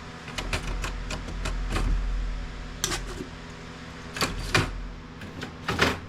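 Hard plastic printer housing and parts clicking and knocking as they are worked loose and pulled apart by hand: a scatter of sharp clicks, with a few louder knocks later on.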